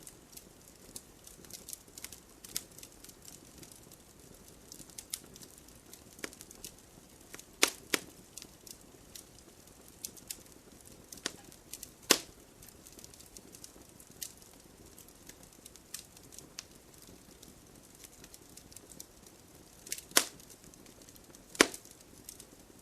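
Wood campfire crackling, with frequent small snaps and a few louder pops, the loudest about eight, twelve, twenty and twenty-one seconds in.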